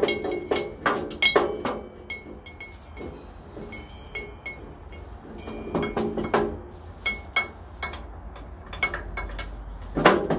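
Metal clinking and knocking as a bolt and tools are worked against a 14-inch bandsaw's frame and riser block while the block is bolted in: clusters of sharp taps with a short metallic ring, near the start, around six seconds in, and again near the end.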